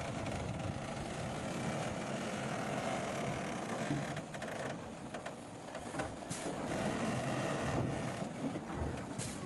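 Engines of heavy road-construction machinery running steadily, with a few sharp knocks, and a brief lull about five seconds in.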